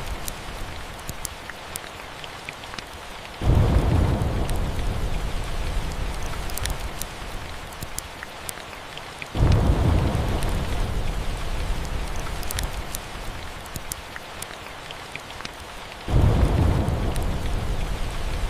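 Steady rain with three rumbles of thunder that set in suddenly, about three, nine and sixteen seconds in, each fading away over a few seconds. Small sharp crackles of a wood fire run through it.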